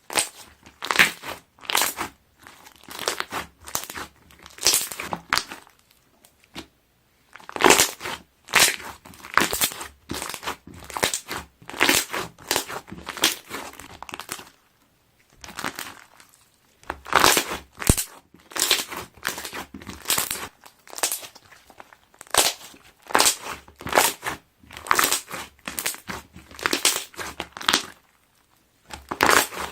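Air-filled slime pressed and squeezed by hand, trapped air bubbles popping in quick, crackling strings of clicks. It comes in bursts of several seconds with three short pauses.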